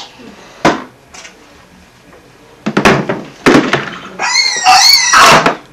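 Several dull thuds and knocks, as of objects hitting or being banged on a hard surface, then a toddler's high-pitched squeal with a wavering pitch near the end.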